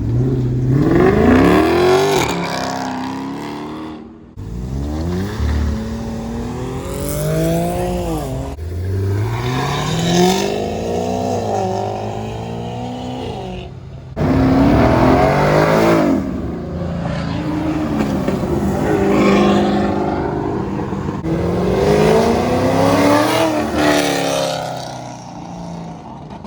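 A series of performance cars accelerating hard past, their engines revving up in pitch and dropping back at each gear change. A new, louder car starts up sharply about halfway through.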